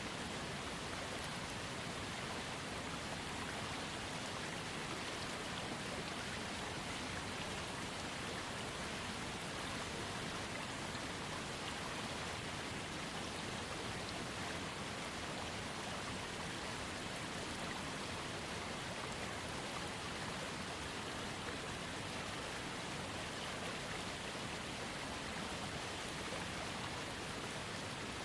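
Small waterfall fed by a trickling creek, water falling and splashing in a steady, even rush.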